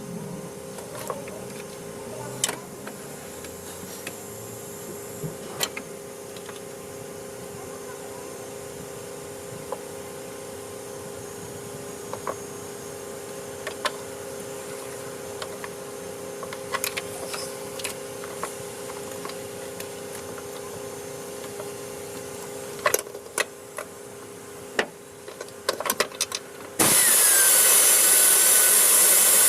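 Workshop work sounds: a steady mechanical hum with scattered metallic clicks and taps of hand tools, then near the end a loud power tool starts up and runs steadily.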